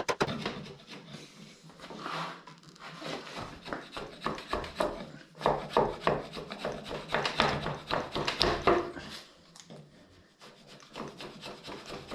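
Oak timber being worked by hand with a scraping or cutting tool: irregular runs of short rasping strokes of wood on wood or metal on wood, with a quieter pause near the end.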